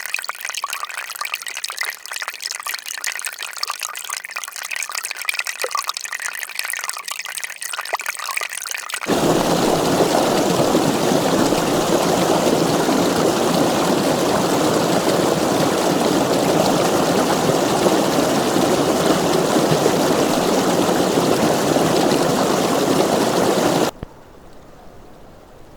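Running river water in the spring thaw: first a light, splashing trickle. About nine seconds in, it cuts suddenly to a louder, fuller, steady rush of water. Near the end, that cuts off abruptly to a much quieter water scene.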